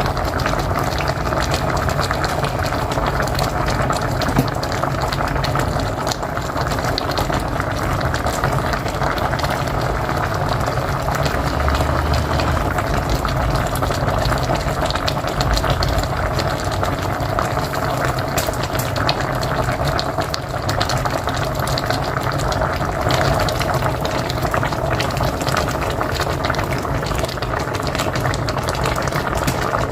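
Pot of mocotó (cow's feet stew) boiling hard on a wood-fired stove, a steady dense bubbling with many small pops.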